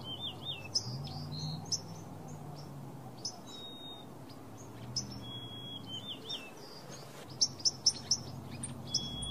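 Birdsong: several birds chirping, one repeating a call three times about every four to five seconds, a held whistle that breaks into a few quick wavering notes. A quick run of sharp chirps comes near the end.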